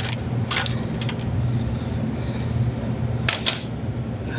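Sharp metallic clinks of hand tools on metal, a few early on and a close pair a little past three seconds in, as wrench and socket work begins on a starter's mounting bolts. A steady low hum runs underneath.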